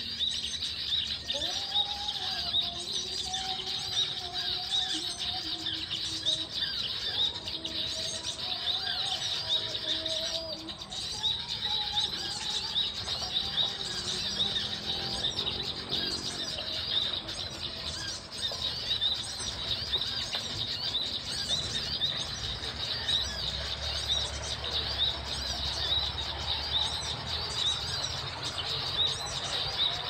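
Small birds chirping rapidly and without a break, with a lower, wavering call in the first dozen seconds.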